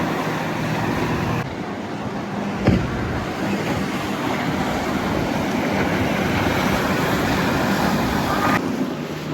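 Motorboat engines running as boats pass through an inlet, under a steady wash of wind and water noise. The sound changes abruptly three times, with a sharp click at the second change.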